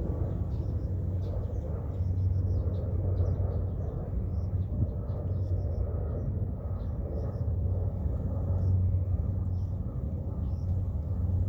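Outdoor nature ambience: a steady low rumble with many faint, short, high bird chirps scattered through it.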